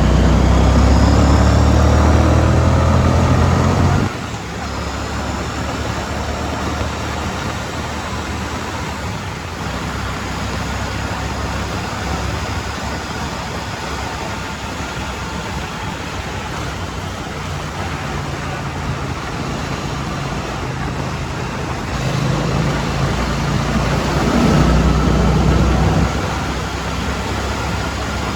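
2016 Triumph Street Twin's 900 cc parallel-twin engine running loud under throttle for about four seconds, then dropping suddenly to a quieter, steadier cruise with road and wind noise. About six seconds from the end it grows louder again for a few seconds, then backs off.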